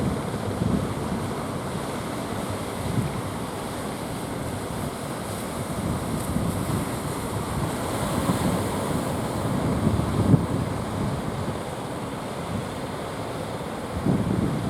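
Sea surf rushing and breaking, with strong wind buffeting the microphone in gusts.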